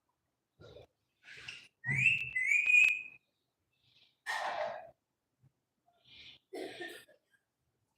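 Pet parrot calling in short, separate sounds: two quick rising whistles about two seconds in, then noisier squawk-like calls later on.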